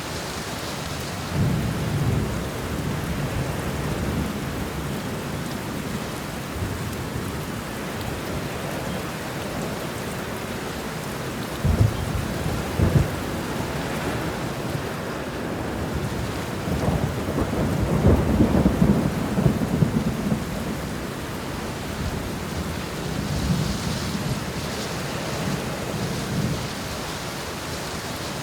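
Steady heavy rain with rolling thunder: a short rumble near the start, two sharp cracks about a second apart near the middle, then a longer rumble a few seconds later.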